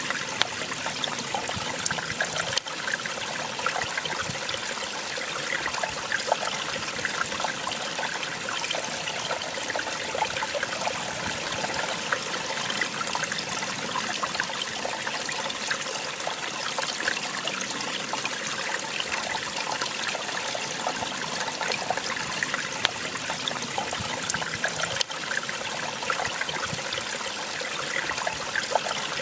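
Small waterfall splashing and trickling steadily, an even, high-sounding rush of falling water with a few sharper splashes.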